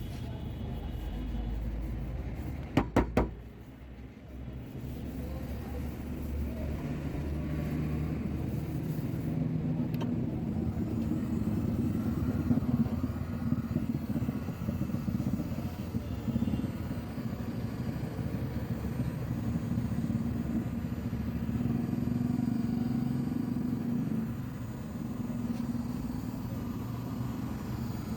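Three quick sharp knocks close together about three seconds in, then a steady low rumble of vehicle engine noise.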